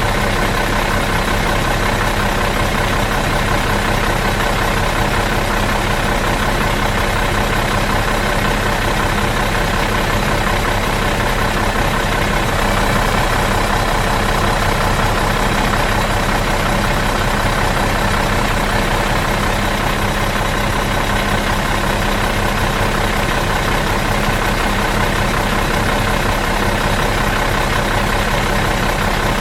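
Bus engine idling out of gear, running evenly and steadily.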